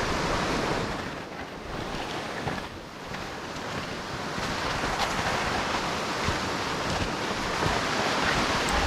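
Steady rushing noise of wind on the camera's microphone mixed with the hiss of snow, while riding down through deep powder; it eases briefly a second or two in, then builds again.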